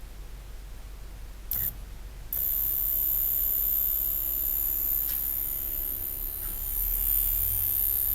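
A brief click about a second and a half in, then an electric fuel pump starts and runs with a steady high-pitched whine and buzz. It is powered directly by bridging the fuel pump relay's circuits on a VW CIS fuel-injection system.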